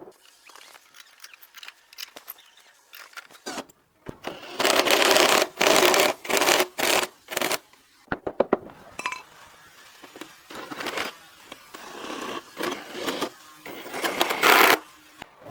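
Woodworking tool noise: scattered clicks and taps, then loud bursts of scraping about four seconds in and again near the end.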